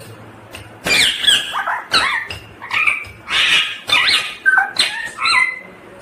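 Ringneck parakeet (rose-ringed parakeet) giving a rapid string of shrill screeching calls, each a quick bending sweep in pitch, starting about a second in and stopping shortly before the end.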